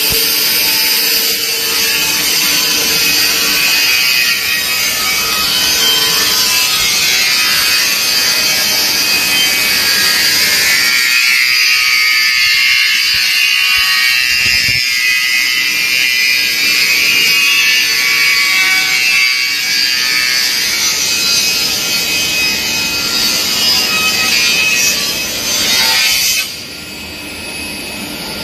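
Woodworking saw machine running and cutting wood, a loud continuous high-pitched whine and rasp. The noise drops off sharply near the end.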